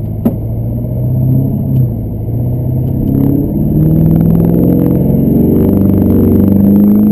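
Chevrolet Duramax LB7 6.6-litre turbo-diesel V8 accelerating as the pickup pulls away from a green light, its engine note climbing and getting louder toward the end. A single sharp click sounds just after the start.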